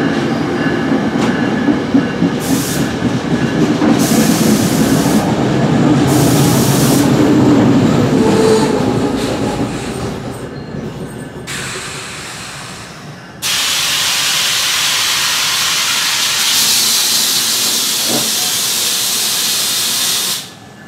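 NJ Transit passenger train rolling along the platform, its wheels and cars rumbling and slowly fading. About halfway through, a loud steady hiss of air starts abruptly, runs for about seven seconds and cuts off sharply near the end.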